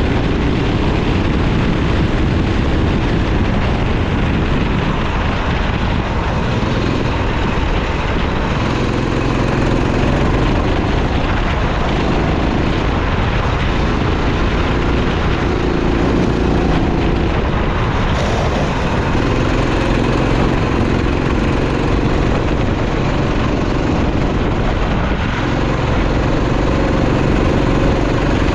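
Racing kart engine running hard, its pitch climbing and dropping every few seconds as it revs out on the straights and falls back into the corners.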